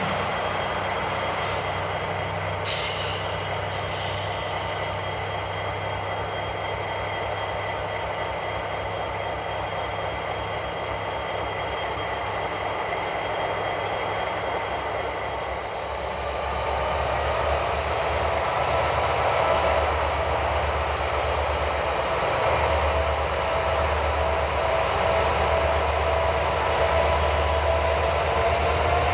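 Diesel freight locomotives running as the train approaches. About halfway through the sound grows louder, with a pulsing low throb and engine tones that rise slowly.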